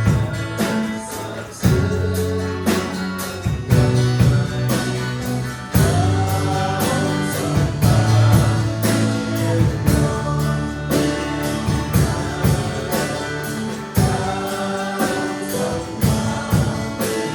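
Church worship band playing a gospel song with a group of voices singing, over a steady beat.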